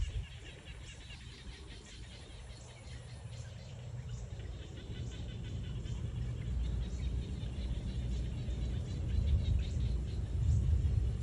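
Small birds chirping faintly over a steady low rumble that grows louder toward the end.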